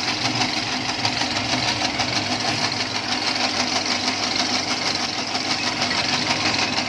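Motor-driven noodle machine, converted from hand-cranked, running steadily with a fast, even rattle.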